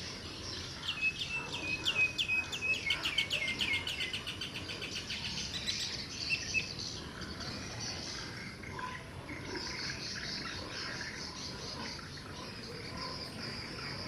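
Wild birds singing: about a second in, one bird gives a series of repeated clear notes that speed up into a fast trill, which fades by about six seconds. A steady high insect buzz carries on underneath, most noticeable in the second half.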